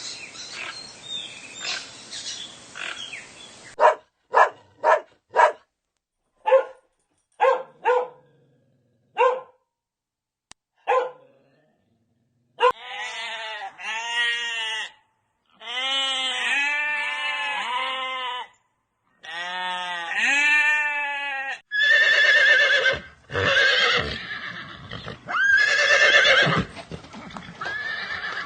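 A succession of different animal calls: about eight short, sharp calls, then a run of longer, wavering, pitched calls repeated one after another, then louder calls near the end.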